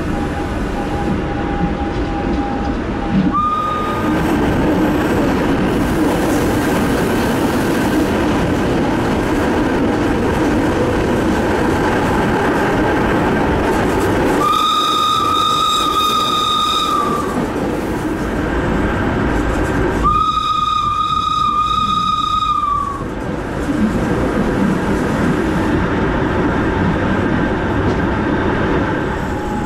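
Electric rack-railway train running on the Núria cog line, with continuous rumble and rattle from the rack and wheels. Its horn gives a short toot a few seconds in, then two long, steady blasts about halfway through, each lasting two to three seconds.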